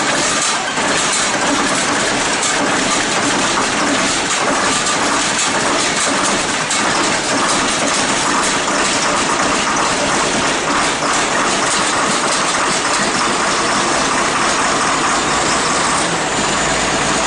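Diesel engine running steadily after a cold start, a dense even clatter.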